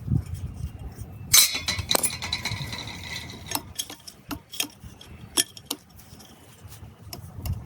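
Small hard objects clinking and knocking together in a string of sharp taps. One strike about a second and a half in rings briefly.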